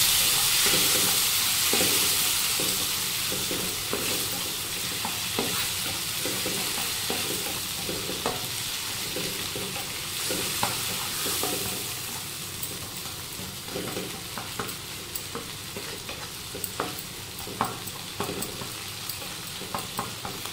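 Tomato pieces, spice seeds and dried red chillies sizzling in hot ghee in a non-stick kadai, stirred with a wooden spatula that scrapes and taps the pan in short clicks. The sizzle is loudest at the start and dies down gradually.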